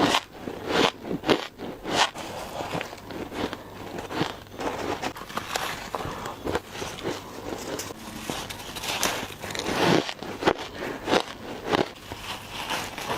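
Ice being bitten and crunched, a quick series of sharp, crisp crunches with several louder bites.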